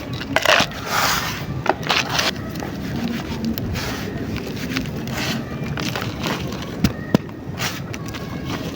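Dry, crumbly shaped chunks being crushed and broken by hand, with gritty crackling and scraping. A few louder crunches come in the first two seconds, and scattered sharp snaps follow, two of them near the end.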